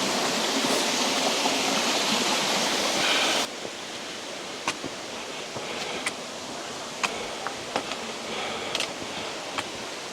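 Rushing water of a mountain stream cascade, a steady hiss that drops abruptly to a quieter level about three and a half seconds in, with scattered sharp clicks after the drop.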